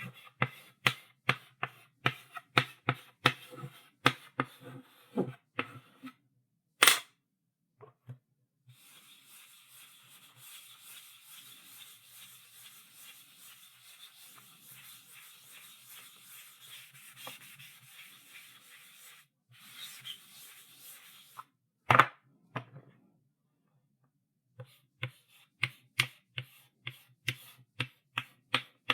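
Chalk on a blackboard: quick tapping strokes, about three to four a second, then a sharp click. About nine seconds in comes a long steady scraping of chalk across the board, broken once briefly, ended by a loud knock near the twenty-two-second mark, after which the quick tapping strokes resume.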